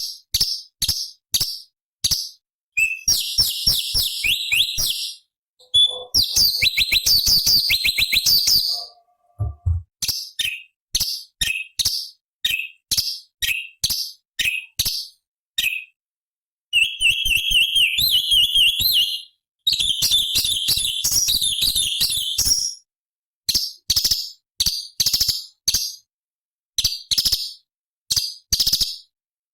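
Cucak cungkok (orange-bellied leafbird) singing: sharp high chirps repeated about three a second, broken by several rapid trilling runs of two to three seconds each. A brief low thump comes near the tenth second.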